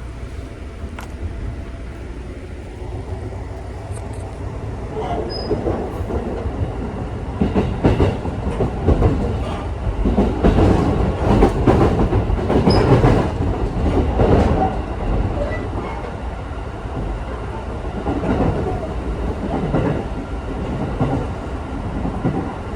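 Electric local train running, heard inside the carriage: a steady low rumble with the wheels clicking over rail joints and points, growing louder through the middle.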